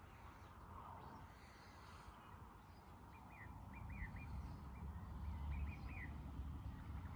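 Faint bird calls: a run of short, quick chirps starting about three seconds in, over a low outdoor rumble that grows louder in the second half.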